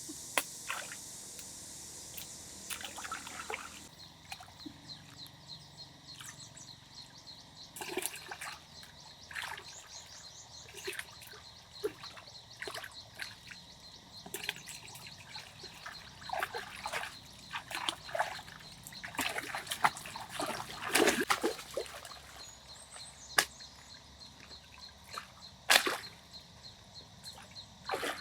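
Water sloshing and splashing in short, irregular bursts, with scattered sharp knocks. The busiest stretch comes about two-thirds of the way through. A steady high hiss stops about four seconds in.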